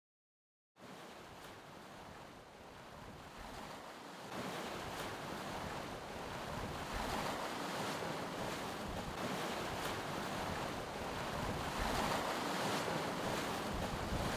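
Wind buffeting the microphone over the rush of sea water and waves around a sailing catamaran under way. After a brief dropout at the start, the noise steps up about four seconds in and grows slowly louder.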